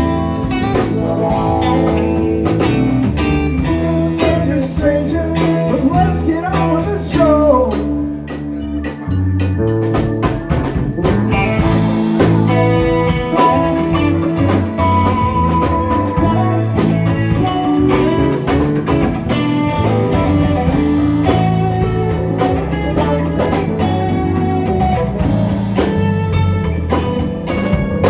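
Live rock band playing an instrumental passage with electric guitars, bass and drum kit in a loose, jam-band style.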